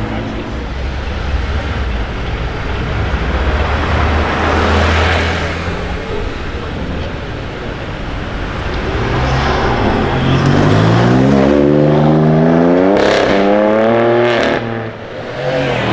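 A performance car's engine running low and steady, then accelerating hard from about nine seconds in, its pitch climbing steeply, with two quick gear changes near the end.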